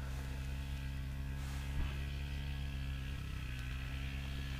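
Steady low mechanical hum made of several even tones, shifting briefly in pitch about three seconds in.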